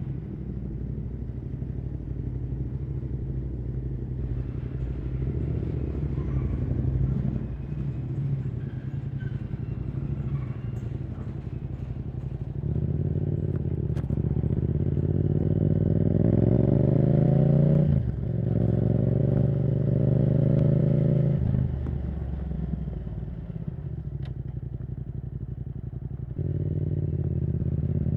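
Yamaha R7's CP2 parallel-twin engine through a Yoshimura R77 exhaust, on the move. It runs steadily at first, then from about 13 s pulls harder with a rising note, breaks off sharply for a quick upshift near 18 s, holds a strong steady note, backs off at about 21 s and picks up again near the end.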